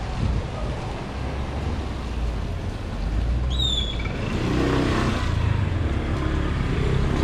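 A motor vehicle approaching on a street, its engine hum growing louder over the second half. A short high chirp sounds about three and a half seconds in.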